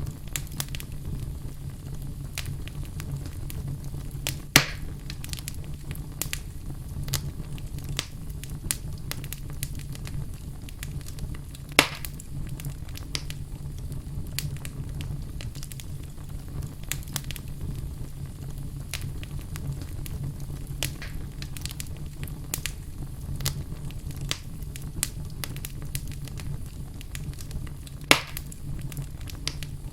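Wood fire burning in a fireplace, crackling steadily with frequent small snaps over a low rumble. Three louder pops stand out: one a few seconds in, one near the middle and one near the end.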